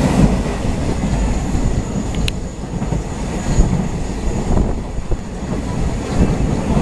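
Passenger train running along the track: a steady low rumble of wheels on rails, a faint thin high whine above it, and one sharp click about two seconds in.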